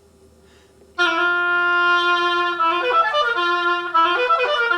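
Oboe playing a passage: about a second in it starts on a long held low note, then moves through a run of quicker, separately tongued notes and another held note.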